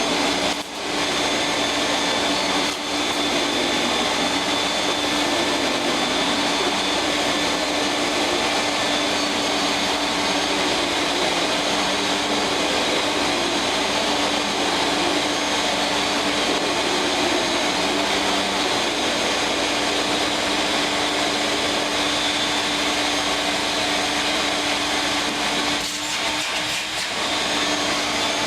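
Fairfax SCPD7 canister vacuum cleaner running steadily at full suction: an even hum under a high whine. It is rather loud, which the owner puts down to its missing post-motor filter. A few brief knocks come near the end.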